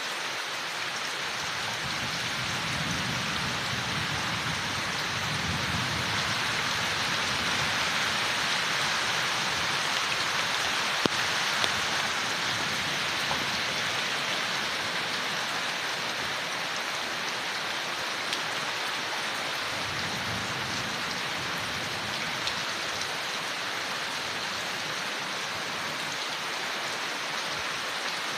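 Steady rain falling on leaves, a continuous even patter with a few louder single drops near the middle. A soft low rumble swells twice, a few seconds in and again about two-thirds through.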